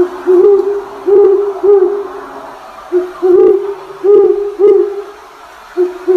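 A bird's low hooting calls, repeated about a dozen times in quick succession and often in pairs.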